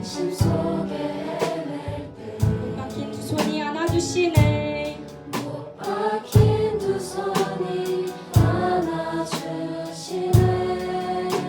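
Live worship music: voices singing a slow praise song over piano and a drum kit, the kick drum hitting about once a second.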